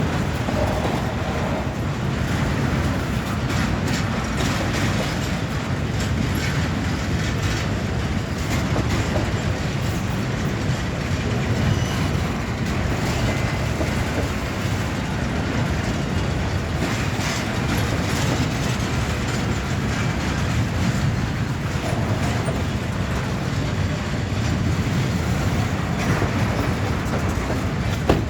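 Freight train cars rolling steadily past at close range: a continuous low rumble and rattle of steel wheels on the rails, with light clacking over the rail joints.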